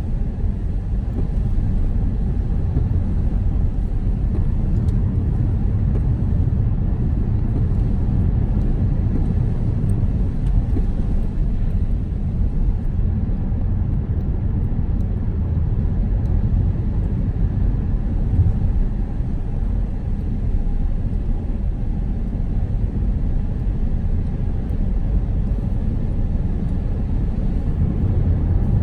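Steady low rumble of road and engine noise heard inside a moving car's cabin, with no change in speed.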